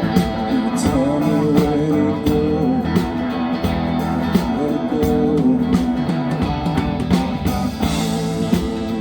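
Live band music: guitar with drums and bass, and a sung or bent melody line over it.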